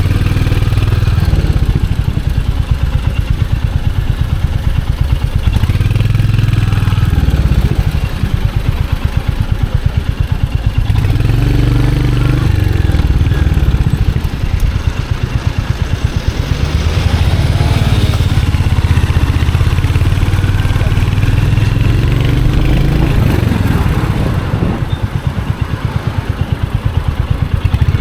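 Royal Enfield Hunter 350's single-cylinder engine and exhaust thumping steadily while riding through the city, its level dipping briefly a few times as the throttle is eased.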